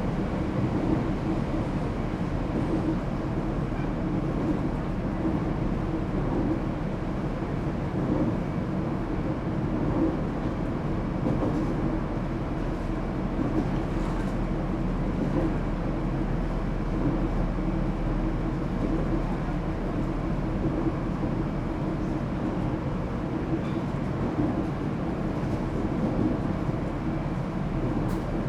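Echigo TOKImeki Railway ET127 series electric train, fitted with Toyo GTO-VVVF inverter control, running at steady speed, heard from inside the car: a continuous rumble of the wheels on the rails and the running gear.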